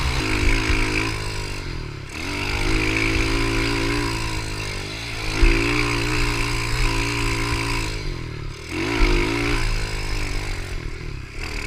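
Pit bike engine running under load while riding, its revs climbing and falling again and again as the throttle is worked, with short drops in revs about two seconds in, near eight and a half seconds and near eleven seconds.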